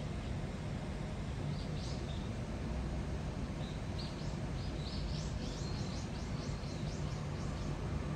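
A small bird calling: a few high chirps, then a quick run of about four notes a second. Under it is a steady low hum with background noise.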